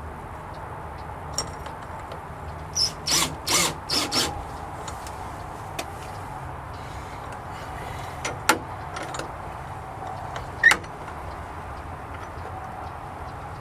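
Metal hasp latch hardware on a wooden gate being worked: a quick run of rattling clacks about three seconds in, then single sharp metallic clicks later on, the loudest near the end.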